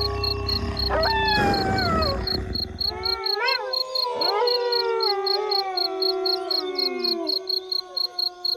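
Wolves howling in chorus: several long howls overlapping, each sliding slowly down in pitch, with new howls joining about a second in and again around three to four seconds in. An evenly pulsing insect chirp runs underneath.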